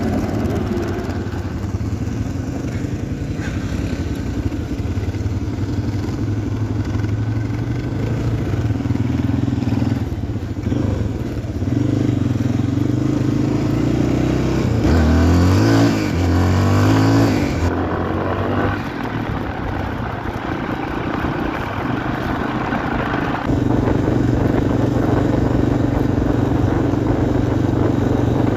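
Yamaha XT350's single-cylinder four-stroke engine running under way, its revs swinging up and down several times about halfway through.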